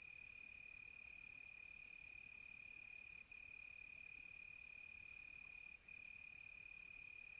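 Faint night chorus of crickets: one steady, unbroken high trill with faster, rhythmic chirping above it.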